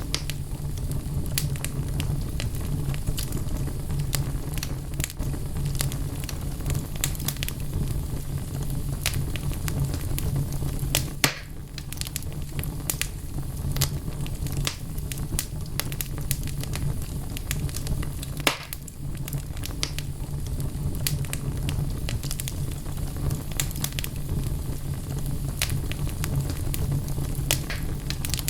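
Wood fire crackling in a fireplace: logs burning with irregular sharp pops and snaps over a steady low rumble of the flames. Two louder pops stand out, about a third and about two thirds of the way through.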